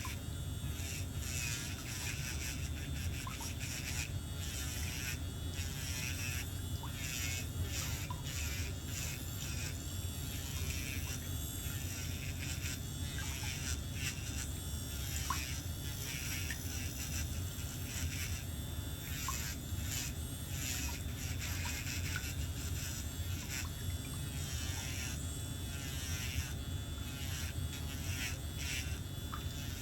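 Electric nail drill buzzing steadily as it grinds a thickened toenail, over soft background music.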